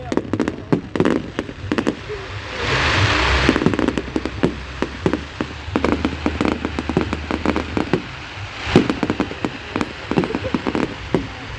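Fireworks crackling and banging in quick, irregular succession, with a brief rushing hiss about three seconds in.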